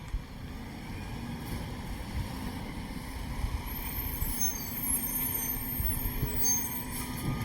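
Garbage truck's diesel engine running with a steady low rumble, with faint high squeals from about four to seven seconds in.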